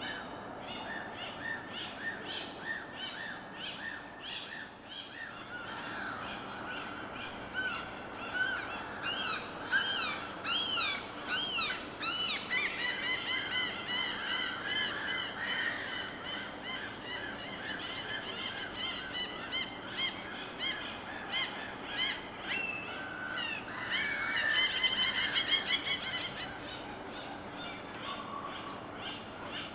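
Several birds calling and singing at once, with quick chirps, rising whistled notes and trills, busiest about a third of the way in and again near the end, over a steady wash of water.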